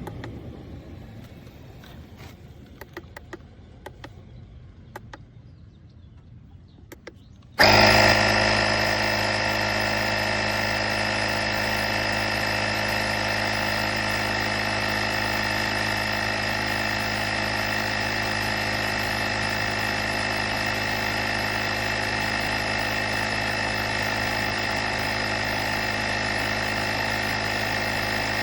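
A few light clicks, then about eight seconds in a motor starts abruptly and runs on with a steady, unchanging hum.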